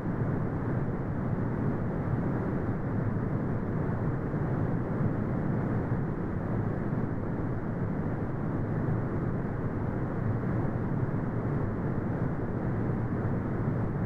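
Steady brown noise: a deep, even rumble-like hiss, strongest in the low range and rolled off above about 2 kHz, with no changes or events.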